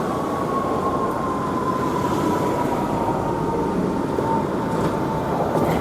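Fire engine passing with its mechanical siren winding down, a single whine slowly falling in pitch over heavy engine and road rumble.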